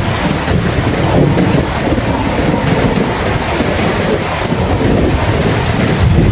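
Steady heavy rain with a low, continuous rumble of thunder underneath, the rumble growing a little stronger near the end.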